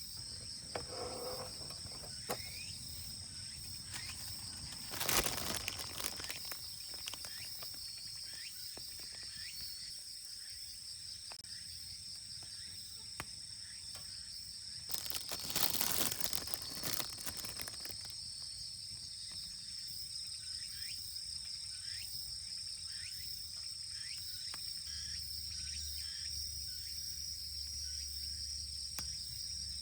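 Insects trilling steadily at two high pitches, with plastic food packaging crinkling briefly about five seconds in and again, longer, from about fifteen to eighteen seconds in.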